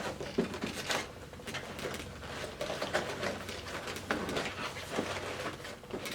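Irregular clicks, taps and rustling of small objects being handled close to the microphone.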